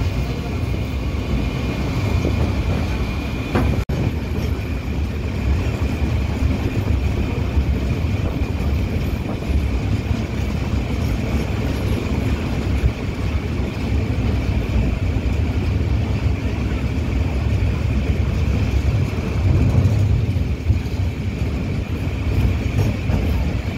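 Express train running at speed, heard from on board: a steady rumble of wheels on the rails with a steady high whine over it. The sound briefly cuts out about four seconds in.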